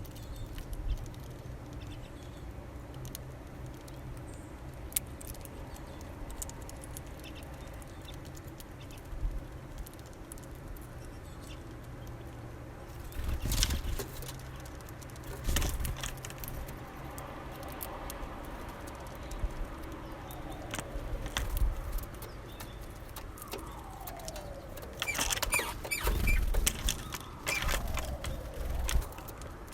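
Small birds feeding at a seed feeder: scattered sharp clicks of pecking and seed-cracking, with louder rustling bouts about halfway through and near the end, over a steady low hum.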